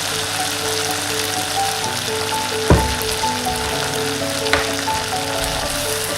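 Food sizzling in hot oil in a frying pan, a steady crackling hiss, with two sharp knocks, one a little before halfway and a fainter one about two-thirds of the way in.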